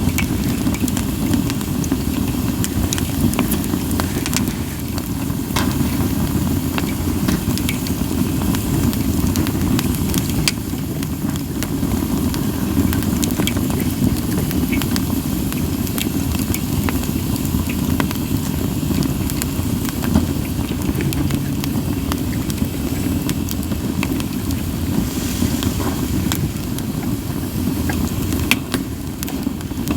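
Campfire of split sawtooth oak (kunugi) logs burning, with frequent sharp crackles and pops scattered over a steady low rush.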